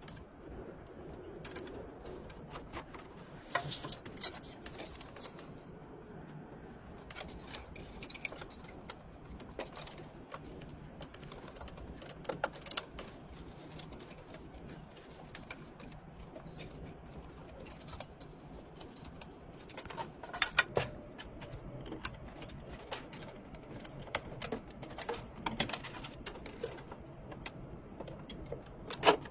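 Scattered light clicks, taps and small knocks of computer parts being handled and fitted, with a few sharper clicks, over a low steady hum.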